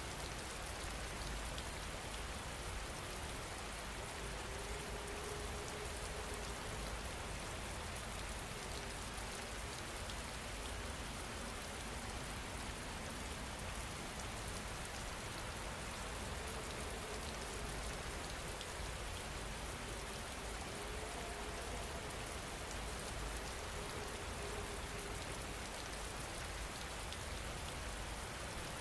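Steady rain falling, an even, unbroken patter with scattered faint drop ticks.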